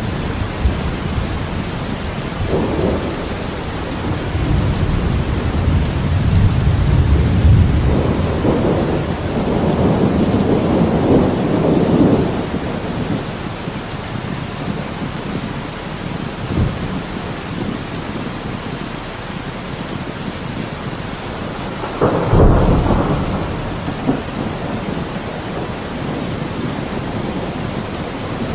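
Rain falling steadily with thunder. A long rolling rumble builds through the first half, and a sharper thunderclap comes about twenty-two seconds in.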